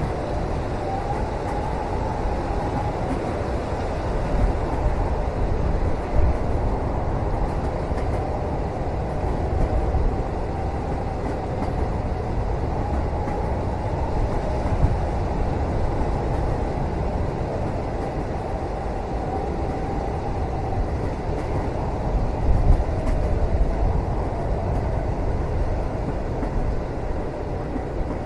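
Moving passenger train heard from inside the cabin: a steady low rumble of the carriage running on the rails, with a faint wavering whine and a few light knocks.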